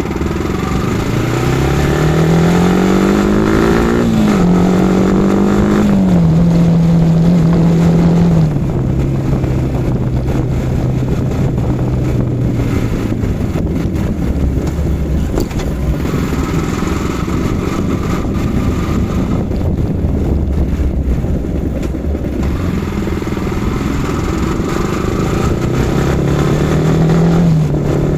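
Yamaha R15 V4's 155 cc single-cylinder engine pulling hard through the gears, its pitch climbing and dropping sharply with upshifts about 4 and 6 seconds in. It then settles to a steady cruise and picks up again with another upshift near the end.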